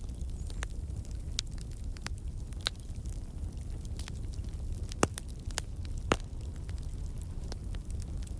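Wood campfire crackling: scattered sharp pops and snaps from the burning logs over a steady low rumble, with two louder pops about five and six seconds in. The pops are typical of water and sap in the wood turning to steam and escaping.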